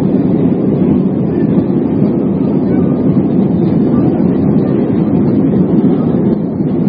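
Loud, steady rumble of an Airbus A320's engines and rushing air, heard inside the passenger cabin through a phone's microphone.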